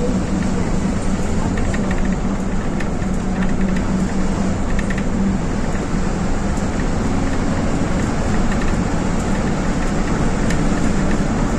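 An engine running steadily: a continuous loud drone with a constant low hum.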